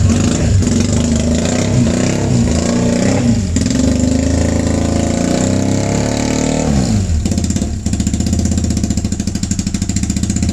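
Motorcycle engine running, revved up and down several times, then settling to an even, pulsing idle about seven seconds in.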